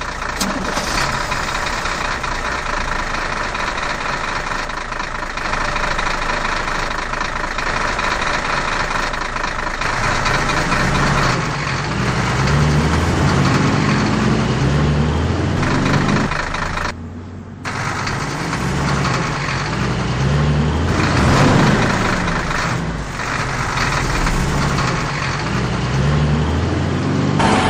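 Truck engine running, its revs rising and falling over and over as it labours from about ten seconds in, with a brief cut-out about seventeen seconds in.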